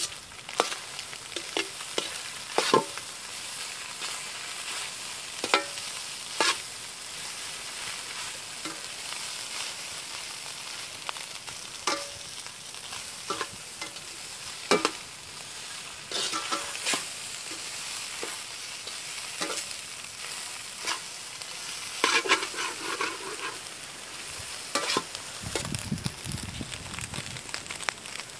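Goat blood fry sizzling steadily in a wide metal kadai over a wood fire, while it is stirred: a spatula scrapes and knocks against the pan at irregular intervals.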